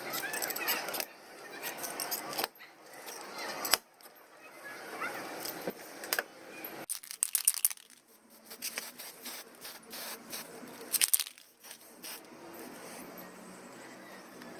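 Scattered sharp clicks and clinks of small hard objects, bunched in quick clusters about seven and eleven seconds in.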